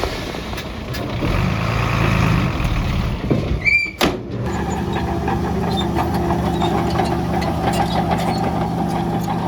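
Heavy diesel construction machinery running, with a brief high squeal a little before the middle, then a sharp click, after which a steady engine drone carries on.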